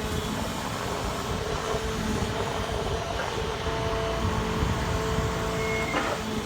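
Grapple saw truck running its Effer knuckle-boom crane: steady engine and hydraulic noise with a held whine, and a short higher tone near the end.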